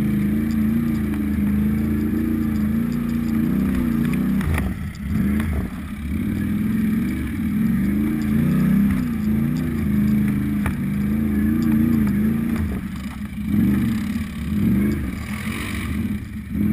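Off-road motorcycle engine riding a rough trail at low revs, the revs rising and falling with the throttle and dropping briefly about four and a half seconds in.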